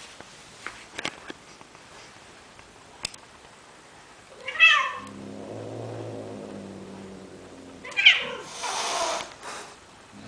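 Cats courting: two loud meows that fall in pitch, about four and a half and eight seconds in. Between them is a low, steady, drawn-out cat sound. The second meow runs into a breathy rushing noise.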